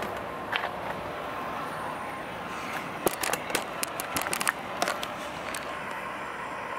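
Freight train cars rolling past with a steady rumble, and a run of sharp, irregular clacks from the wheels from about halfway through.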